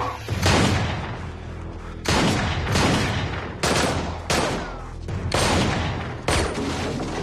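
A rapid series of about eight loud, sharp bangs, each fading out with an echoing tail, over a steady low rumble.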